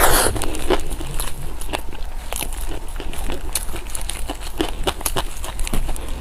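Close-miked eating: food being bitten and chewed, a steady run of small wet clicks and crackles, with a louder bite at the very start.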